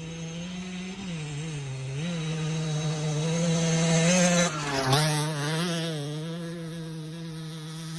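Beta RR 50's 50cc two-stroke single-cylinder engine running at high revs, its pitch wavering up and down. It grows loudest about four seconds in, dips sharply just before five seconds, then picks up and holds steady.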